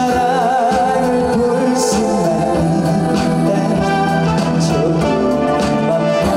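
Male singer performing live with a band through a PA system, holding a long note with vibrato at the start over a steady accompaniment.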